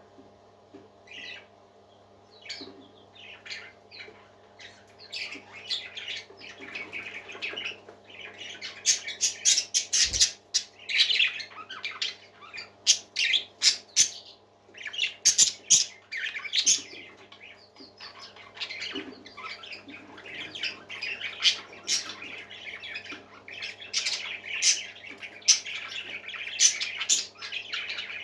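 Parakeets chirping and squawking: a few scattered calls at first, building about five seconds in to busy chattering in bouts with short lulls, over a faint steady hum.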